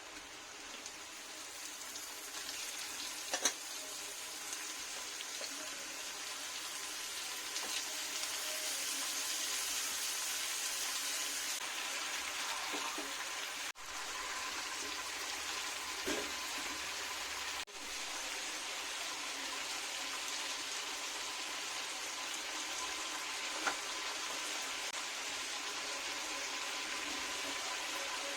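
Food sizzling steadily in hot oil in a pan as a curry cooks, with a few light clicks of a utensil against the pan. The sizzle cuts out briefly twice around the middle.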